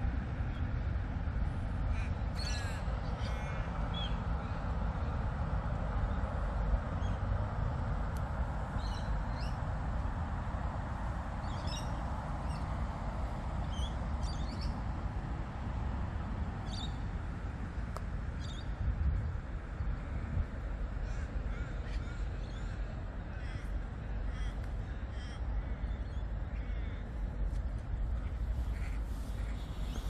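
Wild birds calling, short scattered calls over and over, over a steady low rumble of background noise.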